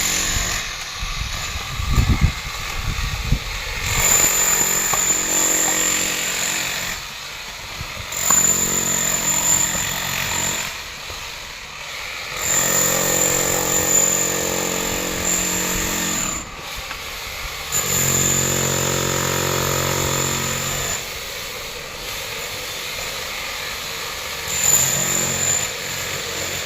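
A power tool's motor running in about five separate runs of a few seconds each, with a high whine, plus some low thumps about two seconds in.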